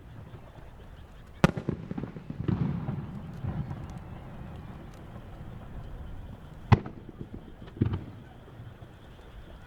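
Aerial firework shells (Japanese warimono spherical shells) bursting overhead: three sharp booms, the first about a second and a half in followed by a rolling echo, then two more close together near the end.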